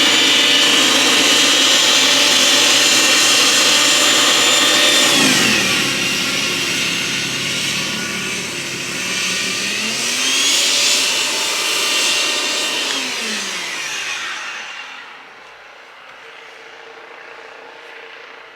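Corded electric snow blower running with a high motor whine, winding down about five seconds in, spinning back up around ten seconds, then winding down again and stopping about fifteen seconds in.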